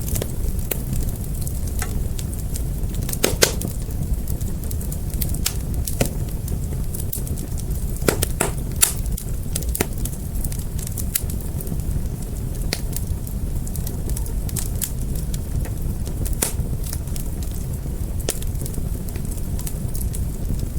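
Wood fire burning with a steady low rumble of flames and scattered sharp pops and crackles, a few louder snaps about three, eight and sixteen seconds in.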